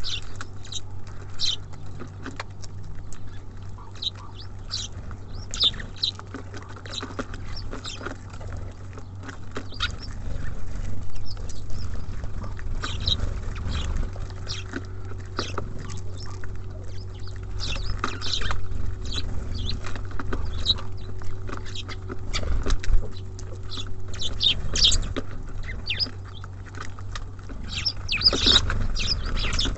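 Small songbirds at a bird feeder making frequent short, high chirps, with scattered knocks and taps as they land and peck on the feeder, over a steady low hum.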